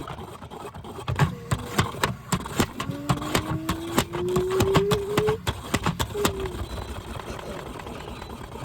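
Washing machine running, with a motor whine rising in pitch for a couple of seconds amid a series of sharp knocks and rattles.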